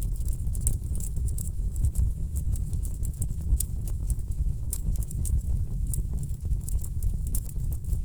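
Wood fire burning in a fireplace: a steady low rumble with many irregular sharp crackles and pops from the burning logs.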